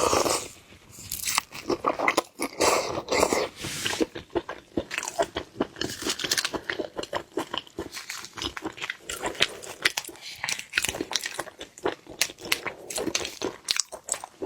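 Close-miked chewing and crunching of seafood: many quick, irregular crisp crunches and wet bites, steady throughout.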